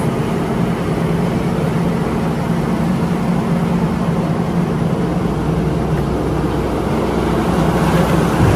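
A vehicle engine running steadily with an even low hum, getting slightly louder near the end.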